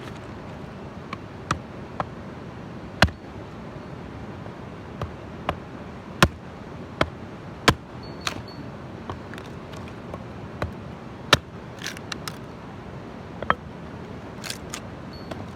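Wood campfire crackling, with irregular sharp pops about once a second, a few of them loud, over the steady rush of a waterfall.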